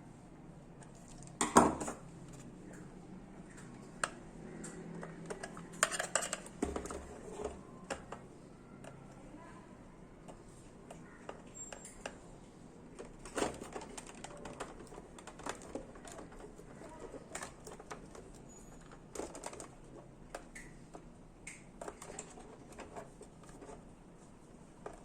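Irregular clicks, taps and scraping of a screwdriver and hard plastic parts being worked on a toy RC tank, prying and twisting at a stuck cover. A sharp knock about a second and a half in is the loudest sound.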